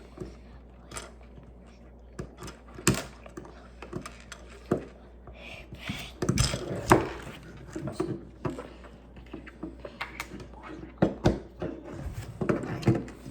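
Plastic Lego pieces clicking and clattering as they are handled and pressed together, in irregular sharp clicks.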